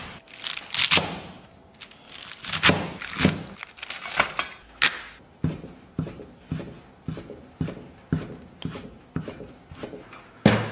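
Kitchen knife cutting baby napa cabbage on a cutting board: a series of crisp chops, irregular at first, then steady at about two a second.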